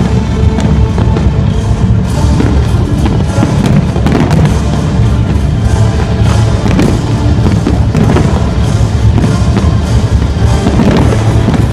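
A fireworks display: shells bursting and popping in quick succession over loud music with drums.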